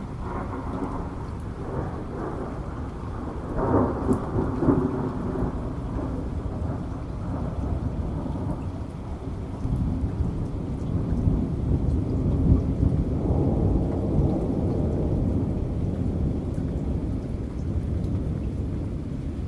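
Heavy rain with rolling thunder, a louder crackling peal about four seconds in and another long rumble building midway.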